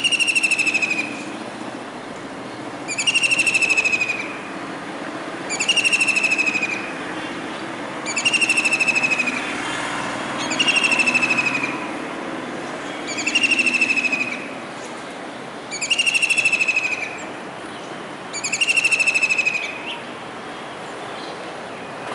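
Kingfisher calling: eight loud, rapid trills, each about a second long and falling slightly in pitch, repeated about every two and a half seconds.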